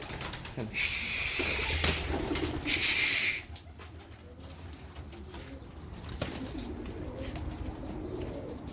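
Homing pigeons cooing in their loft. Two short, loud hissing bursts come about one and three seconds in.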